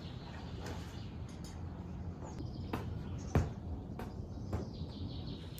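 Outdoor ambience: a steady low rumble with faint bird chirps and a few sharp clicks, the loudest a little past halfway.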